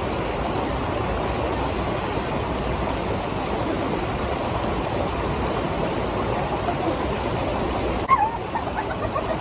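Creek water rushing steadily over rocks. About eight seconds in the sound breaks with a sudden bump, and the water carries on a little quieter.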